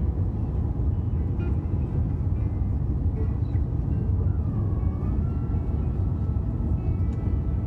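Steady low cabin rumble inside an Airbus A350-900 during descent, the airflow and Rolls-Royce Trent XWB engine noise heard from the passenger seat.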